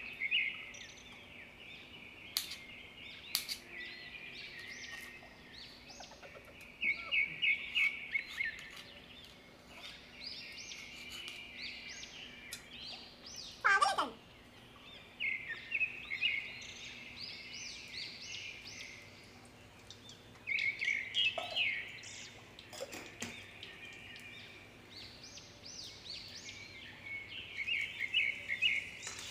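Birds chirping in repeated bursts of quick high chirps. About halfway through, a louder sound slides steeply down in pitch, and a few sharp clicks come in between.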